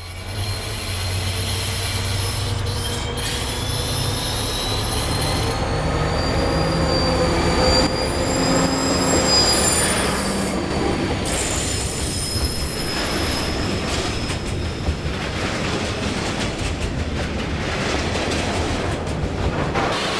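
A train running on the rails with a low rumble and wheels squealing, several high thin tones that slowly slide up and down in pitch.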